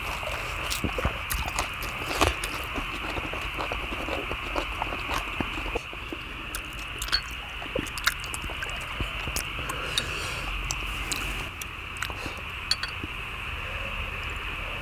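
People chewing and biting food, with scattered short clicks and taps over a steady high hiss.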